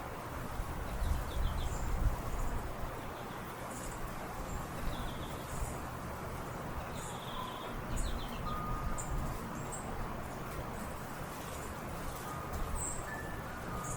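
Small songbirds chirping at a feeder: short, high chirps scattered throughout, over a steady low rumble.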